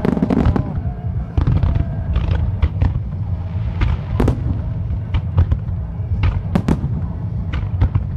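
Starmine fireworks barrage: shells and ground mines bursting in quick succession, with sharp bangs every half second to second over a continuous low rumble.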